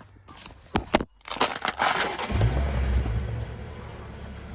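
Car engine cold-started after sitting a long time: a couple of clicks, the starter cranking for about a second, then the engine catching and running fast before settling to a steady idle.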